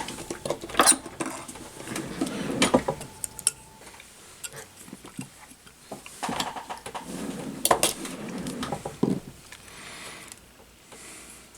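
Tools and small hard parts handled on a workbench: scattered clicks, knocks and clatter in several clusters, quieter near the end.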